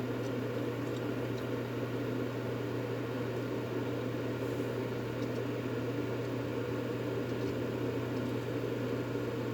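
Continuous white-noise sleep sound for soothing a baby: a steady, low-pitched rushing noise with a constant hum underneath, unchanging throughout.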